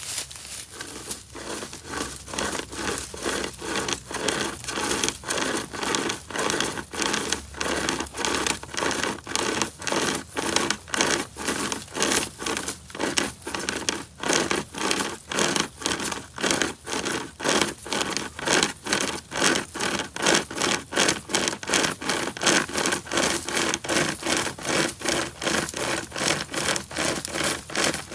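A hand-pulled pocket chainsaw chain sawing through the woody stems of a bush, rasping in quick, even back-and-forth strokes, about two a second.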